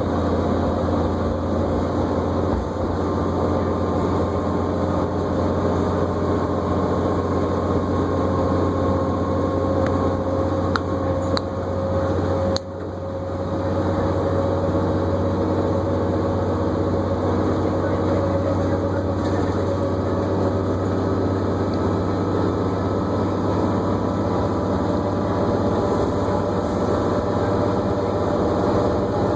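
Inside a New Flyer D40LFR diesel bus under way: the steady drone of the engine and drivetrain, with a whine that climbs gently in pitch. The sound drops off sharply about halfway through, then builds back up over a second or so.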